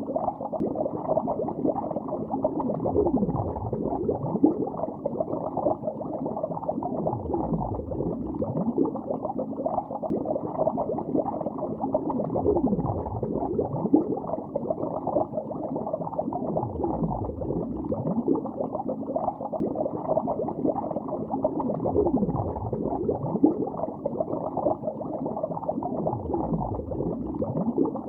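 Bubbles streaming up through lake water, heard underwater: a dense, continuous gurgle of many short rising bubble chirps, all low and with nothing high-pitched. A deeper surge swells about every four to five seconds.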